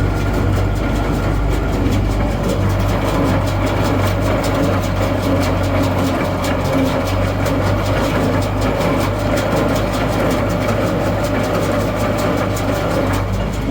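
Tractor engine running steadily with a deep, even hum.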